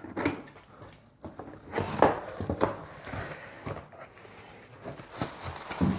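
Cardboard and plastic packaging being handled and opened: irregular rustling with a few knocks, the loudest about two seconds in and near the end.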